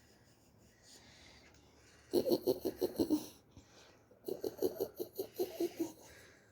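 A person laughing in two bursts of quick, pulsing laughter, the first about two seconds in and the second just after four seconds.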